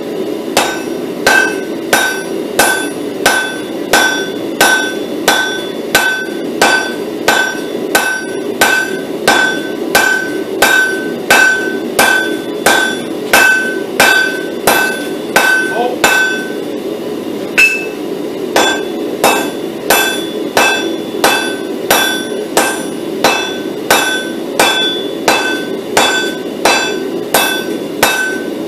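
Blacksmith's hammer striking a hot pattern-welded steel bar on an anvil in a steady rhythm, a little under two blows a second, each with a short metallic ring. The blows pause for about a second and a half past the middle, then resume, over a steady low hum.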